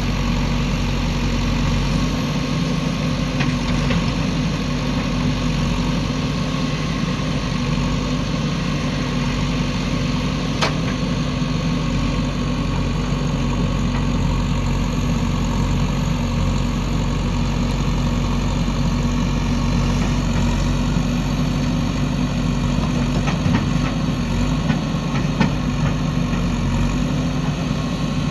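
Diesel engine of a JCB 3DX backhoe loader running steadily with a low hum. There is one sharp click about ten seconds in and a few faint clicks near the end.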